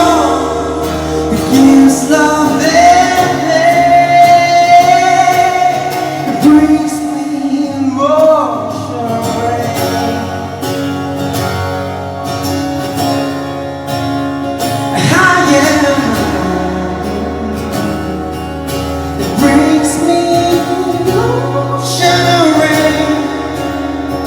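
A song: a female vocalist sings long held notes that slide and waver in pitch over instrumental backing.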